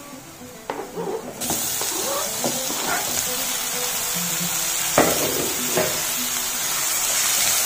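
Chopped tomatoes hitting hot oil and fried onions in a metal kadai, breaking into a steady sizzle about a second and a half in. A few sharp knocks of the spatula against the pan come near the start and around five and six seconds. Soft background music plays underneath.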